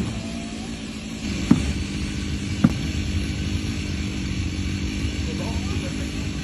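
An engine running steadily, with two sharp knocks about a second apart near the start.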